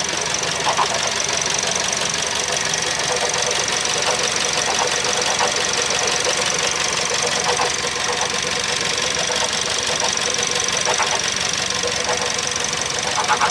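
Suzuki Swift Sport's M16A engine running steadily at idle in the engine bay, with its rebuilt air-conditioning compressor fitted, giving a steady high whine and scattered light ticks. This is the running check of whether the abnormal noise blamed on the old compressor has gone.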